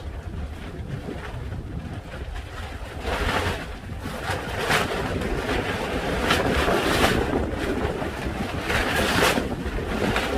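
Strong wind buffeting the microphone with a constant low rumble; louder rushing gusts come in about three seconds in and keep swelling and falling.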